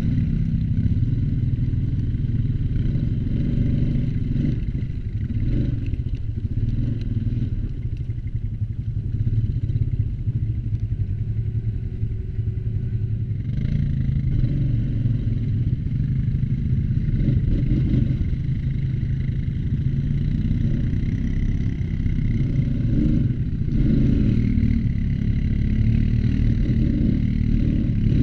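ATV engine running under way, its pitch rising and falling a little as the throttle changes, with some rattle from the machine.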